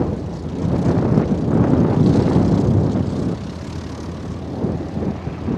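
A light airplane's piston engine and propeller running steadily, dropping a little in level after about three seconds.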